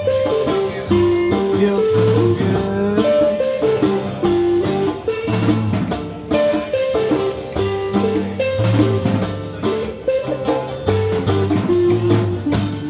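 Live blues band playing an instrumental passage: a lead guitar plays a melodic solo line over bass and a drum kit.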